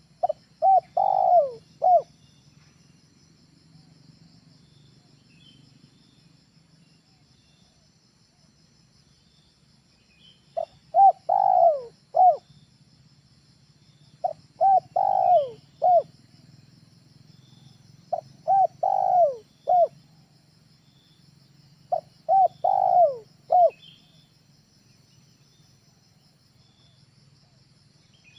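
Spotted dove (tekukur) cooing: five phrases a few seconds apart, each a few short coos around one longer coo that falls in pitch. It is a 'training' call, used as a lure for wild spotted doves.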